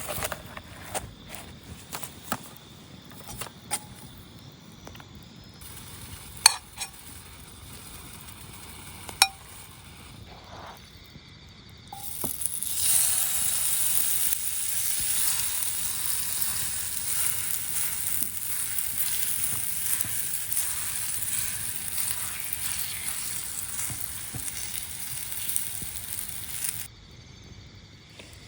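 Scattered clinks and knocks of cookware being handled, then food sizzling on a hot pan: a loud, steady hiss that begins about halfway through and cuts off suddenly near the end.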